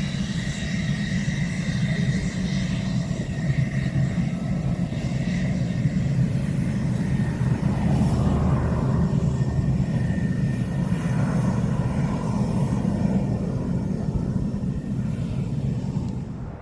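F-16 fighter jet's engine during its departure: a loud, steady jet rumble with a high whine at first, swelling through the middle and easing toward the end.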